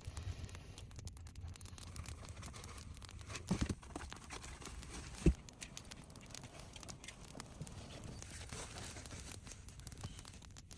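Rustling, crinkling handling noise throughout, with a short cluster of dull thumps about three and a half seconds in and a single sharp knock a little after five seconds.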